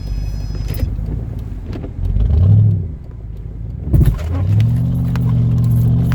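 A vehicle engine revving in deep snow: the pitch rises and falls once about two seconds in, there is a thump about four seconds in, and then the engine holds a steady raised rev.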